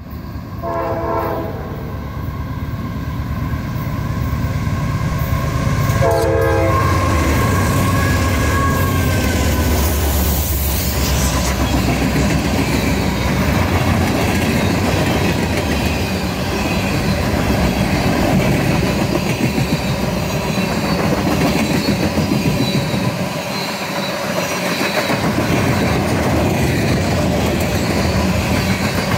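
Diesel freight train passing close by: the locomotive's horn sounds two short blasts, about a second in and about six seconds in. The locomotive then goes by with a tone falling in pitch, and the long string of freight cars follows, wheels rumbling steadily on the rails.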